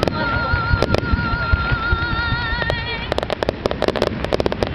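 Fireworks going off over show music played on loudspeakers, a singer holding a long note. About three seconds in, a rapid run of crackling pops begins.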